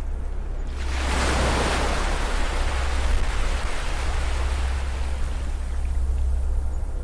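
An ocean wave breaking on a beach about a second in, its wash of surf fading slowly over the next few seconds, over a steady low hum.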